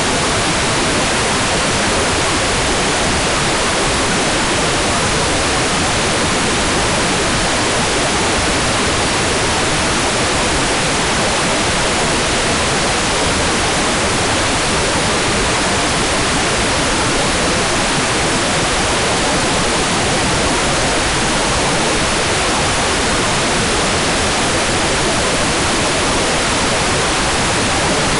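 Hairdryer running steadily, a constant even rushing noise with no change in pitch or level, used as white noise for baby sleep.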